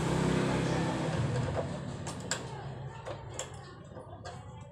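A vehicle engine running steadily, fading away over about two seconds, followed by several sharp clicks or knocks.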